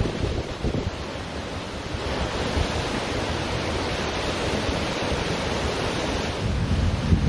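Ocean surf washing steadily on a beach, swelling slightly about two seconds in, with wind buffeting the microphone.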